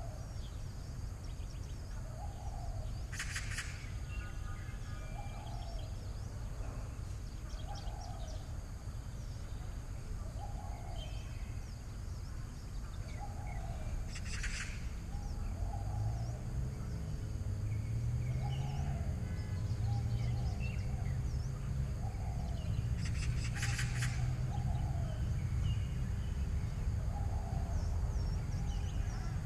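Wild birds calling: a short low note repeated about once a second, faint higher chirps, and three brief loud shrill bursts spaced about ten seconds apart. A low rumble grows louder in the second half.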